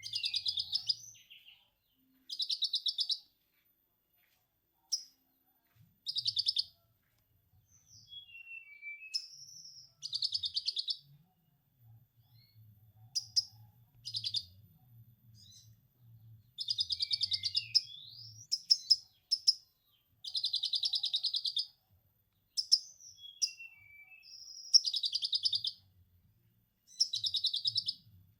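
A konin songbird singing: rapid buzzy trills in repeated bursts about a second long, with short chirps and whistled glides between them. The trills are lovebird 'ngekek' chatter worked into the konin's song.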